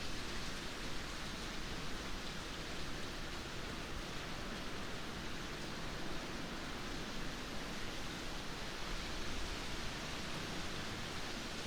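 Steady rainfall: an even, unbroken hiss with no separate drips, thunder or other events standing out.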